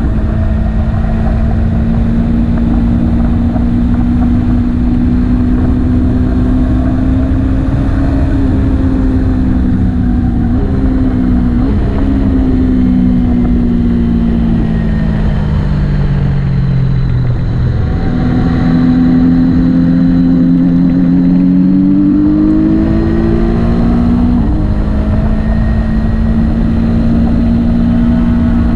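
Motorcycle engine running under way. Its pitch holds steady, sinks for several seconds in the middle as it slows, then climbs again as it accelerates. Quick pitch steps mark gear changes.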